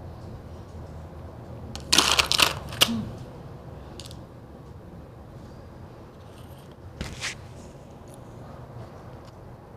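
Close-miked crunching of white ice being bitten and chewed: a loud burst of several crunches about two seconds in, a shorter crunch near seven seconds, and a few faint clicks between.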